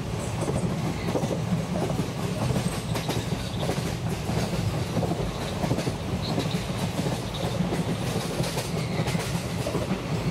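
Steady low rumble of a commuter train running along the track, heard from inside the passenger car.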